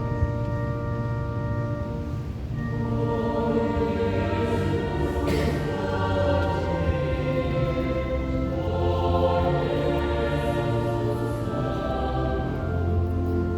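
Choir singing slow, held chords over organ accompaniment.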